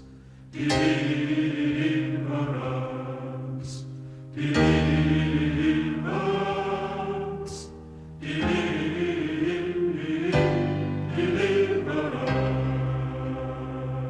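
Choral music: voices singing long held chords, with a new phrase starting every two to four seconds.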